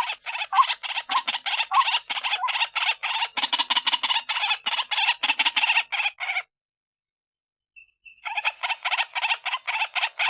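White-breasted waterhen (ruak-ruak) calling: a fast run of harsh repeated notes, about five a second. It breaks off after about six seconds, goes quiet for nearly two seconds, then starts again. This is the female's call, as used to lure the birds in.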